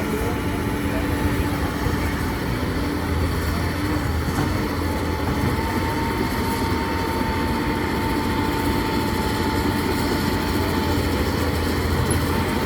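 Heavy construction machinery's diesel engine running steadily under work, with a thin steady whine in the middle.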